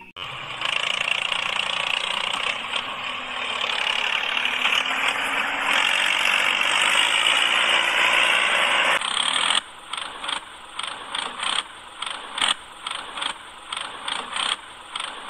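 A small electric motor whirs steadily for about nine and a half seconds, then cuts off suddenly; a run of irregular clicks and taps follows.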